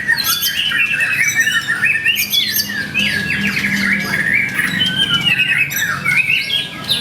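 Several white-rumped shamas singing at once: loud, overlapping whistled phrases, rapid trills and harsh notes with no pause.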